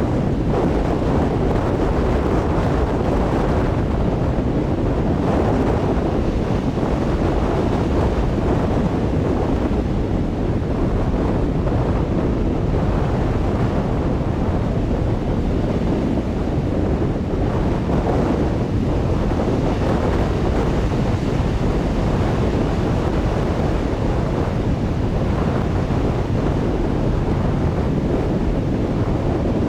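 Strong wind buffeting the microphone over crashing ocean surf, a dense, steady rumble with slow swells.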